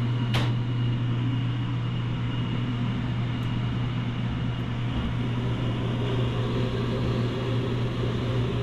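Steady low machine hum with fan-like noise, with one sharp click about half a second in.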